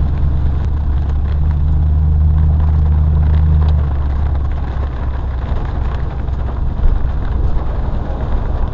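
Truck engine and road noise heard inside the cab: a steady low drone over a hiss of noise, with the drone dropping off about four seconds in as the truck slows.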